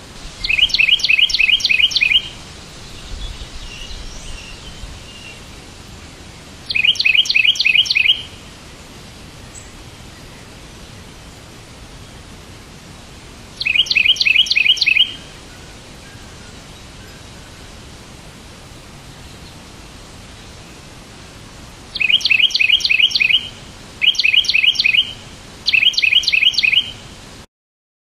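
A bird chirping in quick, evenly repeated bursts: six bursts in all, each about a second and a half long, with long gaps between them, over a steady faint hiss. Fainter chirps come in a few seconds in. Near the end everything cuts off suddenly.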